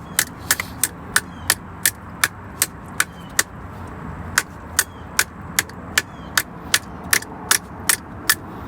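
Hammer tapping on a crescent wrench, about two to three sharp strikes a second with a short pause near the middle. The blows knock a 3/4-inch SharkBite slip coupling along a copper pipe that would not slide on by hand.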